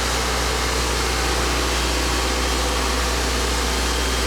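Yacht engine-room machinery running steadily: a constant deep hum under an even, loud hiss, with no change throughout.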